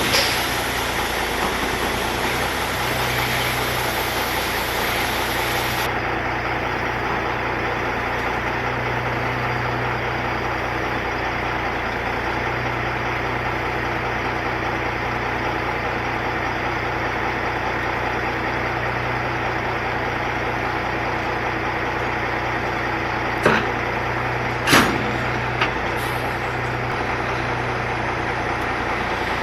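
Heavy truck engine running steadily, with a few short clicks or knocks near the end.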